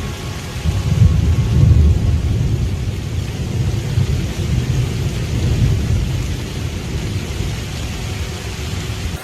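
Thunder rumbling over steady rain. The rumble is loudest between one and two seconds in, then slowly fades.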